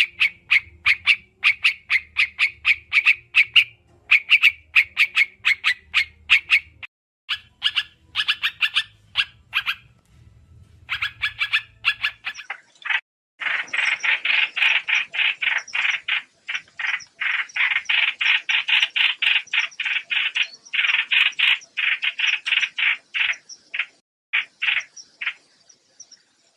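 Trao trảo bird calls played as a trapping lure: rapid series of short, repeated chattering notes with brief pauses between bursts. About halfway through they become a louder, harsher and denser chatter.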